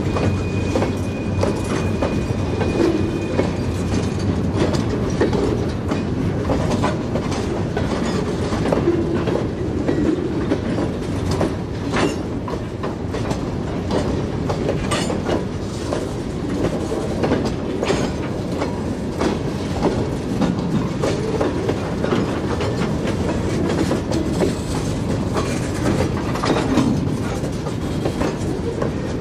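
Freight cars rolling slowly past, their steel wheels clicking over the rail joints in a steady clickety-clack under a continuous low rumble, with scattered sharp clicks and knocks.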